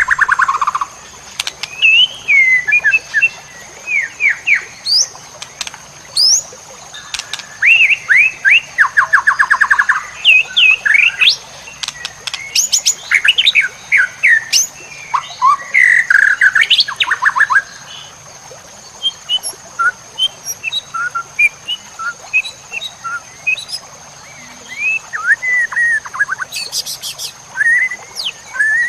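White-rumped shama (murai batu) singing a varied, loud song full of mimicked phrases: whistles, quick trills and fast runs of repeated notes, in bursts with short pauses and a sparser, quieter stretch about two-thirds of the way in. A faint steady high-pitched tone runs underneath.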